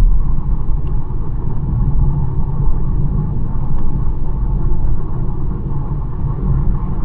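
Steady low rumble of a BMW 1 Series on the move: engine and tyre noise at an even speed.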